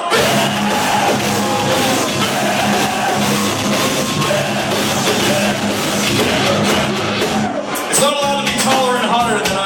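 A live heavy metal band playing loud, with distorted guitars, drums and a singer, whose voice stands out more near the end.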